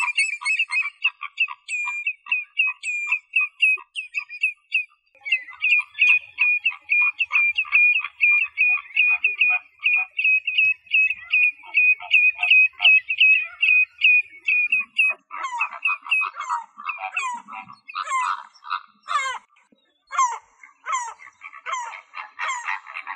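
Wild animal calls: a fast series of short, evenly repeated calls, several a second. About fifteen seconds in, louder calls with sweeping strokes take over.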